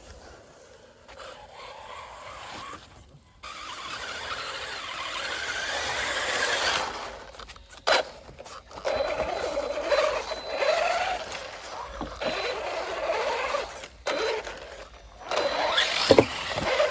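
RC buggies driving on a dirt trail: the motor whine rises and falls with the throttle over the scrabble of tyres on dirt, with a few sharp knocks.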